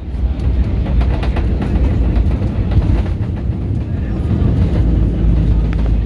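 Airbus A319 airliner heard from inside the cabin during landing: a steady, loud low rumble with light rattling throughout.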